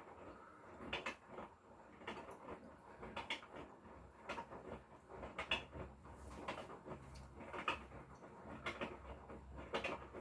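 Hotpoint Core washing machine drum tumbling a load, with irregular knocks and clunks about once a second over the low hum of its inverter motor.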